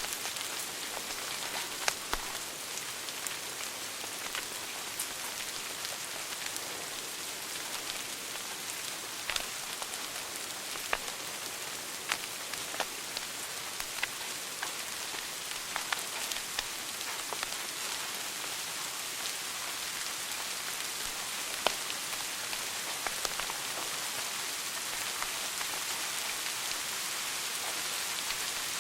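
Wood fire burning in a fireplace: a steady hiss with frequent scattered crackles and occasional louder pops.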